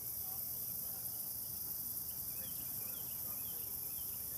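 Steady high-pitched chorus of crickets and other insects, with a few short, faint chirps about halfway through.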